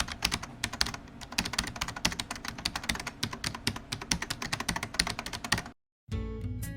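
Rapid keyboard typing, a dense run of clicks several a second, which cuts off abruptly about five and a half seconds in. After a moment of silence, guitar music starts near the end.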